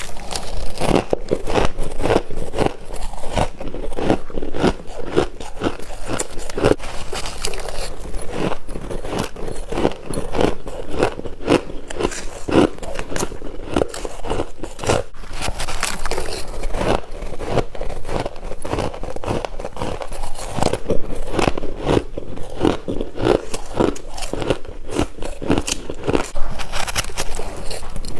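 Freezer frost being bitten and chewed: a dense, irregular run of crunches and crackles with no pauses.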